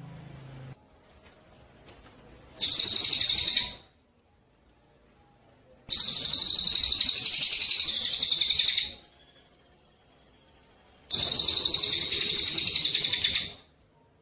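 Songbird giving rapid, buzzy trilled bursts, three times, with pauses of a couple of seconds between them: a loud song-tutor recording of a cage bird.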